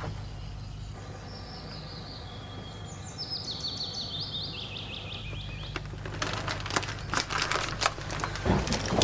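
Small birds chirping, a quick run of short repeated calls, over a low steady hum. From about six seconds in come crackles and rustling that grow louder toward the end.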